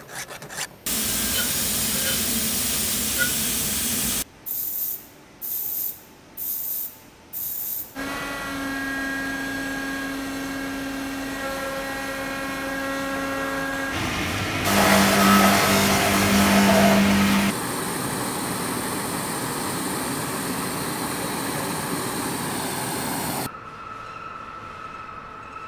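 Silverware-factory workshop sounds cut one after another: a steady hiss, then four short hissing bursts, then a machine running with a steady hum, then a louder noisy stretch of machinery that drops to a quieter hum near the end.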